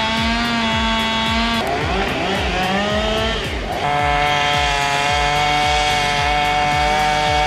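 An engine running at high, steady revs. Its pitch drops and climbs again between about two and four seconds in, then holds steady. It is mixed with background music that has a steady beat.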